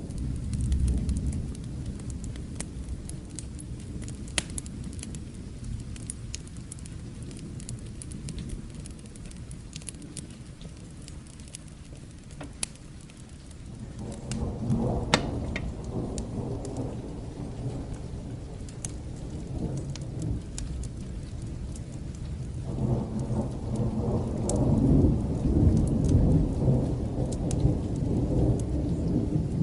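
Steady rain with rolling thunder that swells about halfway through and builds again in the last third, with scattered sharp clicks throughout.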